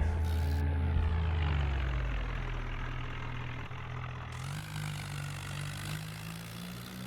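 Swaraj 744 tractor's diesel engine running. Its pitch drops about a second in and the sound grows gradually fainter, with the pitch rising slightly again near the end.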